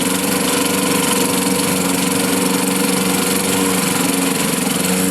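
A 1954 Johnson CD-10 5.5 hp two-stroke twin outboard motor running steadily in a test barrel of water, an even engine note over a broad hiss.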